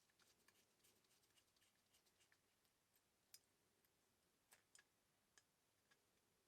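Near silence with faint, scattered small clicks and ticks: a sharper click about halfway through and a quick pair a little after.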